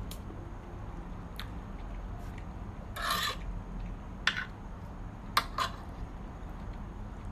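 Something being handled close to the microphone: a short rubbing scrape about three seconds in, then three sharp clicks, over a steady low hum.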